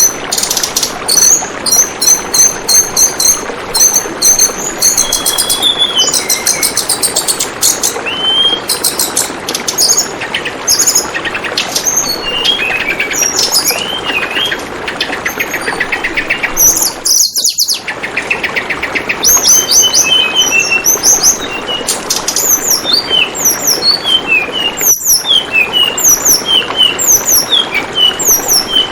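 Tledekan bambu bird song: many short, rapid high chirps and trills over the steady sound of gently flowing water. The water sound briefly drops out twice, once in the middle and once near the end.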